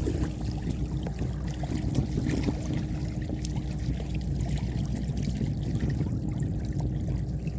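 Water washing and trickling against the hull of a sailing canoe under way, with small splashes.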